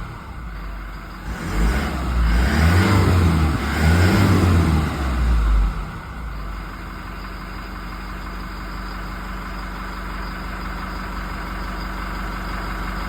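Toyota Innova's 2GD 2.4-litre four-cylinder turbodiesel, shortly after a cold start, revved in several quick blips that rise and fall in pitch. About six seconds in it drops back to a steady idle.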